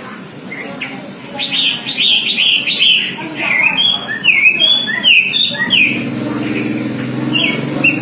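Pekin robin (red-billed leiothrix) singing a fast, varied run of chirpy, sliding notes, starting about a second and a half in and softening after about six seconds.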